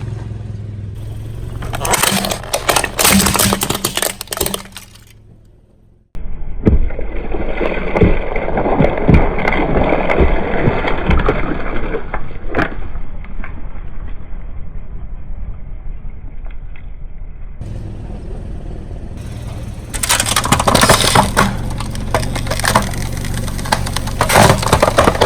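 Crunching, cracking and snapping as a car tyre rolls over and crushes brittle objects, with a low steady hum of the car's engine under the louder stretches. The sound fades out about five seconds in, then cuts abruptly to another long stretch of dense crunching, and loud crackling returns near the end.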